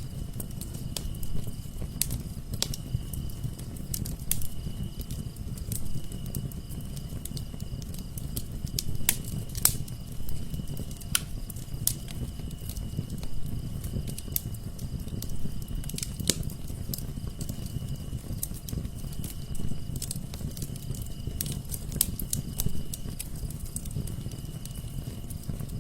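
Wood fire burning in a fireplace: sharp, irregular crackles and pops over a low, steady rumble of the flames.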